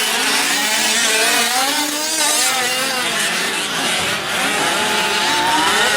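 Several gas-powered 1/5-scale RC trucks racing, their small two-stroke engines revving with overlapping pitches that rise and fall as they speed up and ease off.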